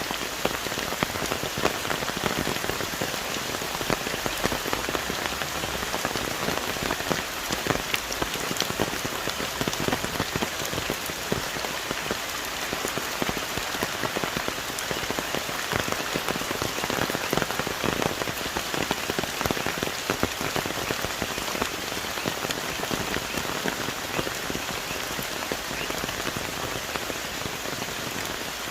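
Heavy tropical rain falling on forest trees: a steady, dense hiss with many individual drops striking close by.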